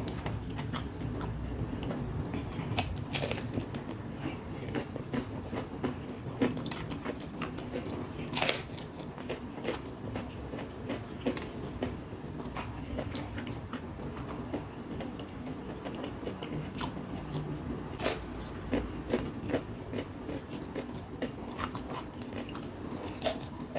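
Chewing and biting into crispy deep-fried snacks (gorengan such as battered fried banana and fritters), with sharp crunches scattered irregularly among steady chewing.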